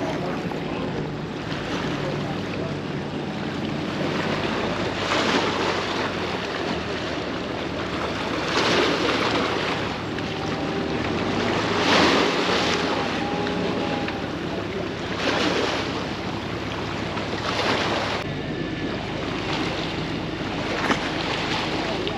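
A vehicle engine running steadily while it backs up to pull a line, with repeated gusts of wind buffeting the microphone.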